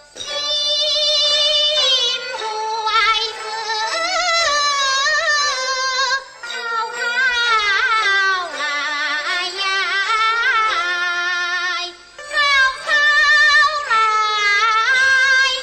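A Teochew opera singer sings a long, high, ornamented melodic line with heavy vibrato, over instrumental accompaniment, breaking off briefly twice.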